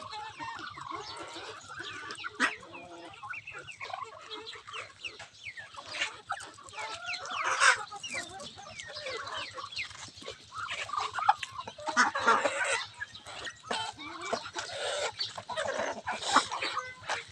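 Native chickens clucking and calling as they feed, with many short calls overlapping and sharp taps among them. Louder bursts of calling come about seven and twelve seconds in.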